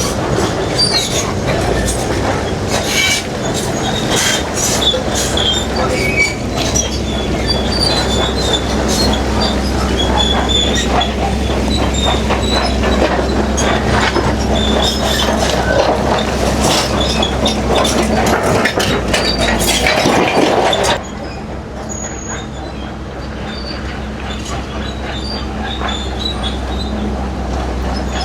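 Bulldozer's diesel engine running under load, with its steel tracks clanking and squealing and rock knocking and scraping as it pushes. About three quarters of the way through, the clatter stops suddenly and only a quieter steady engine hum remains.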